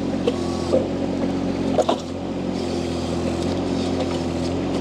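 Mini skid steer loader's diesel engine running steadily, with the hydraulic flow switched down so the sweeper attachment barely turns.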